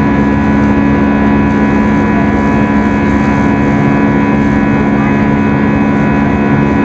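Steady cabin drone of an Airbus A320 climbing out after takeoff: an even engine hum with several steady tones over rushing air noise.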